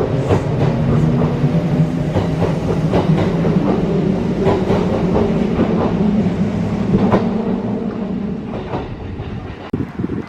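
Kintetsu electric train running on the line, its wheels clicking over rail joints in repeated clusters over a steady low running hum. The sound dies away over the last two seconds.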